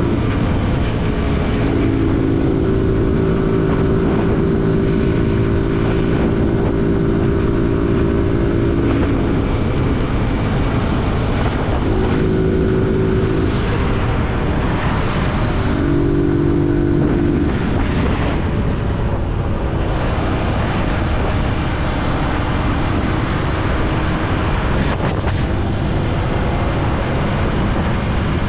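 Zontes G1 motorcycle engine running under way, heard from a helmet-mounted camera; its note stands out for stretches and fades back several times as the ride goes on. Under it a steady rush of wind and tyre noise on wet asphalt.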